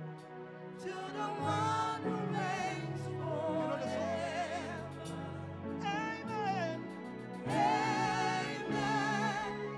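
Worship singing: a lead voice with strong vibrato holding and bending long notes over sustained keyboard or organ chords.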